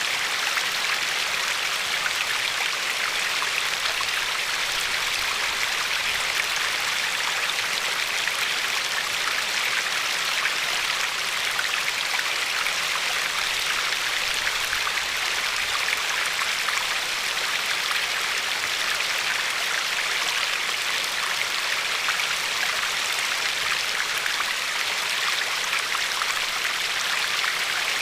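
River water flowing steadily over a pebbly shore, an even rushing hiss with no breaks or changes.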